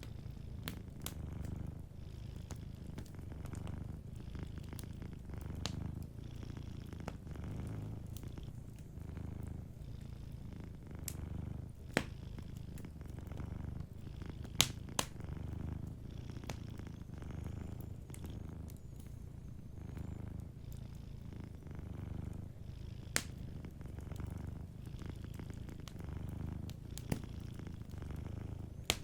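A cat purring steadily, the low purr swelling and fading with each breath, over a wood fire crackling with scattered sharp pops, a few of them louder than the rest.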